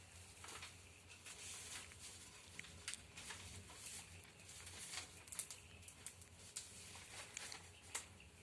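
Paper burning in a fireplace fire, crackling faintly with irregular sharp pops over a soft hiss.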